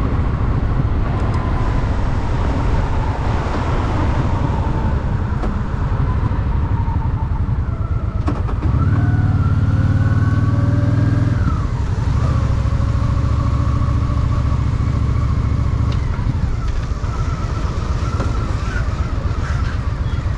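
Honda Shadow VT750's V-twin engine running under way, with road and wind noise. About nine seconds in it gets louder as the bike accelerates, then drops back sharply about two and a half seconds later and carries on steadily.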